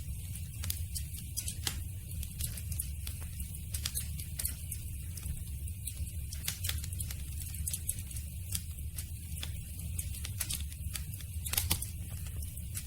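Wood campfire crackling, with many small irregular pops and snaps over a steady low rumble of the flames; one louder pop near the end.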